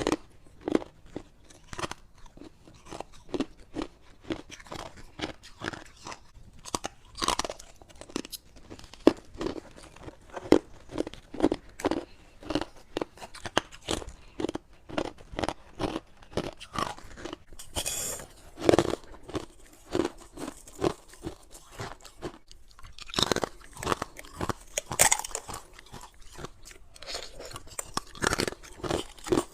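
A person biting and chewing freezer frost and ice close to the microphone: a steady run of crisp crunches, roughly two a second, with a few louder bites in the second half.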